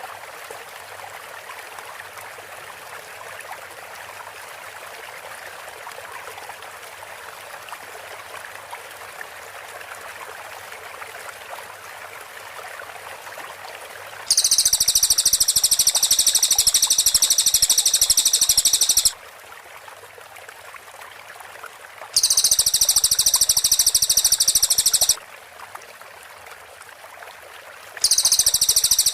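Steady rush like running water, then from about halfway a cililin's very rapid, high-pitched trill of tightly packed notes, the 'tembakan rapat' burst, coming three times: about five seconds, then three seconds, then again near the end, each starting and stopping abruptly.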